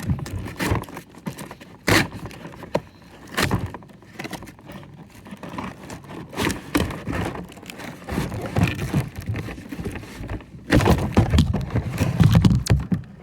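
Toy packaging being handled: scattered knocks and scrapes, then a louder stretch of rubbing and scraping over the last two seconds or so.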